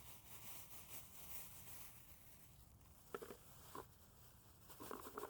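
Near silence, with a few faint short sounds about three seconds in and again near the end.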